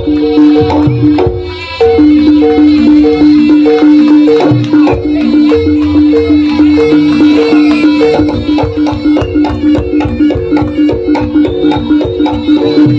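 Live Javanese jaranan music: fast, dense drumming under a held, repeating melody line. The music dips briefly about a second and a half in, then carries on at full strength.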